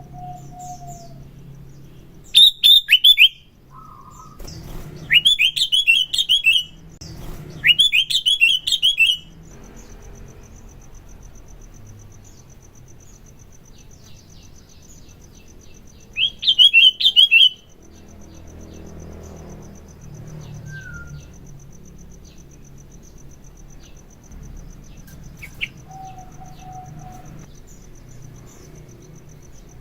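Sooty-headed bulbul (kutilang) singing four loud bursts of rapid, quickly falling notes, each lasting one to two seconds, with pauses between them. A faint steady high-pitched whine runs under the last two-thirds.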